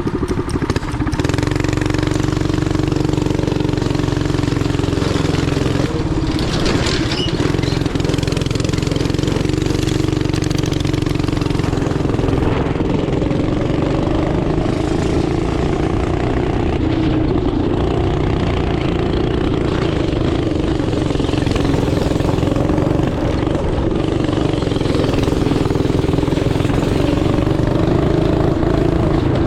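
Small go-kart or mini bike engine running steadily under throttle, its pitch rising and falling gently as it is driven.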